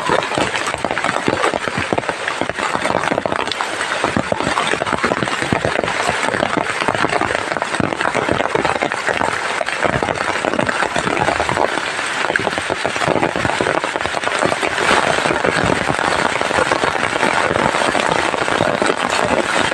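Heavy tropical downpour: a loud, dense crackle of raindrops that keeps up without a break.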